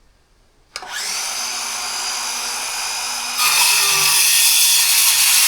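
A cordless circular saw fitted with a 6.5-inch Foxbc blade starts with a click less than a second in and runs up to a steady whine. About three and a half seconds in it turns louder and harsher as the blade cuts into wood.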